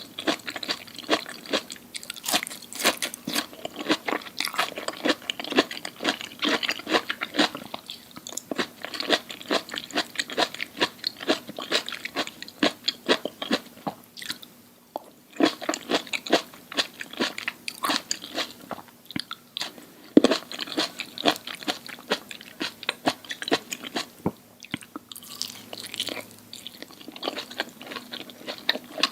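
Close-miked chewing of crunchy food: rapid crisp crunches one after another, easing briefly twice before picking up again.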